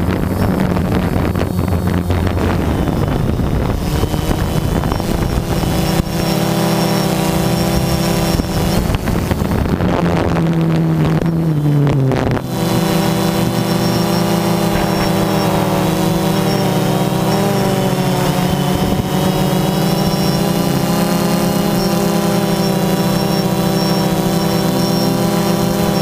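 Quadcopter drone's propellers humming steadily in flight. There is a rougher, wind-buffeted sound for the first few seconds, and about halfway through the pitch slides down and then holds steady.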